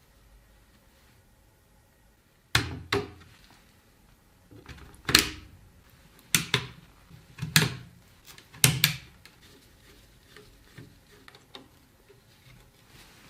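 A series of sharp knocks and clicks of hard objects being handled, about eight of them, several in quick pairs, followed by a few faint ticks.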